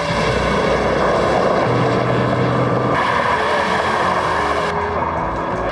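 Dodge Viper's V10 engine running hard at speed on a land speed run, its note held steady and shifting in steps a few times.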